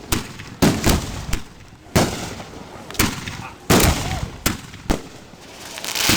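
Fireworks display: aerial shells bursting in a string of sharp bangs, about one every half second to a second, some with a rumbling tail. Near the end a hissing crackle swells.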